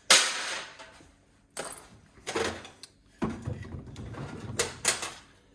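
Knocks, clatter and scraping of plastic and metal parts being pulled out and handled while an instant gas water heater is taken apart. A loud knock comes first, then several smaller clicks and rattles.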